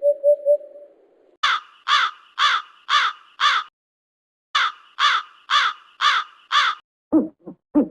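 Crow cawing: two runs of five harsh caws with a short pause between them, after a brief three-note tone. Near the end a lower hooting call begins.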